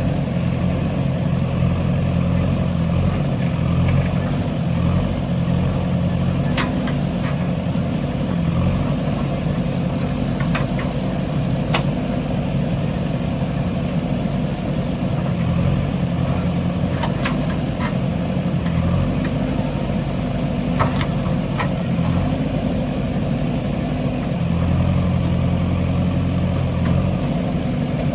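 Diesel engine of a JCB 3DX backhoe loader running steadily, swelling and easing as the machine works, with several sharp knocks scattered through.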